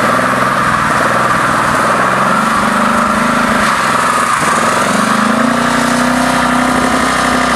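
Car engine held at high revs during a burnout, rear tyres spinning on the pavement. The pitch wavers, drops briefly about four seconds in, then climbs back and holds high.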